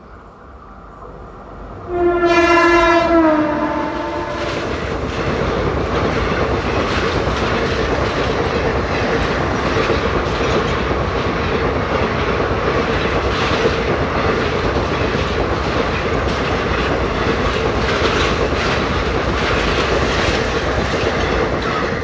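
Indian Railways express passenger train running through a station at speed. The locomotive sounds its horn about two seconds in, loud and held for about two seconds, dipping slightly in pitch at its end. The coaches then go by with a steady rush and rhythmic clickety-clack of wheels over rail joints, which eases off near the end.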